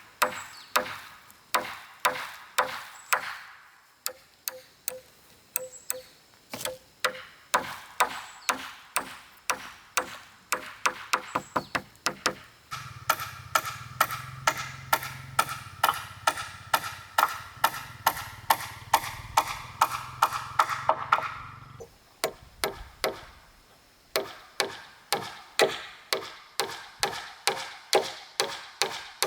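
Hammer driving nails into wooden formwork: sharp, ringing blows at about two to three a second, in runs with short pauses. A steady low hum runs under the blows for several seconds in the middle.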